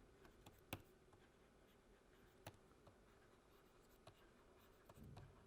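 Near silence with faint writing sounds, a pen or marker moving and tapping lightly twice.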